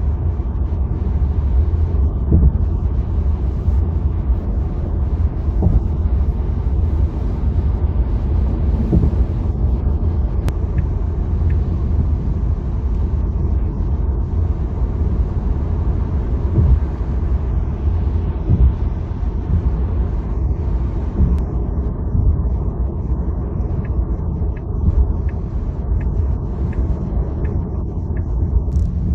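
Steady low road rumble of a Tesla electric car cruising on a highway: tyre and wind noise with no engine note.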